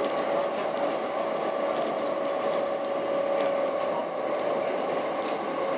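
Heritage narrow-gauge train heard from inside a passenger coach while running: the steady noise of wheels on rails under a constant hum, with a few faint clicks from the track.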